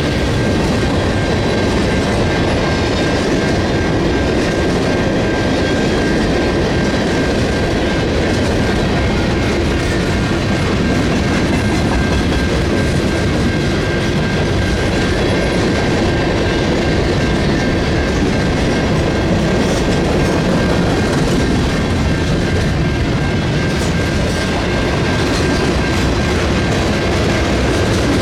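Freight train cars rolling steadily past, wheels clacking over the rail joints, with a thin steady high ring from the wheels on the rails.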